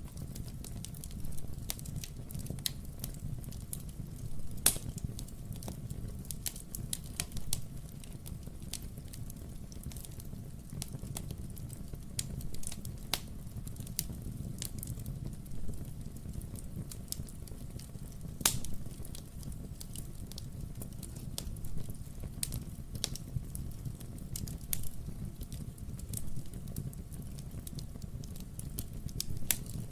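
Wood-burning fireplace crackling: irregular sharp pops and snaps from burning logs over a steady low rumble, with two louder pops about five and eighteen seconds in.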